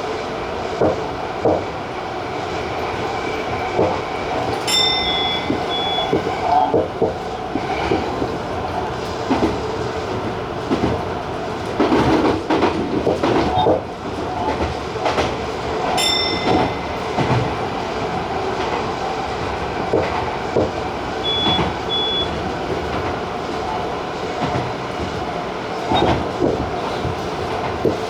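TJ Liner electric train running along the line, its wheels clacking over rail joints, with a louder rattle about halfway through. A few short high beeps sound at intervals.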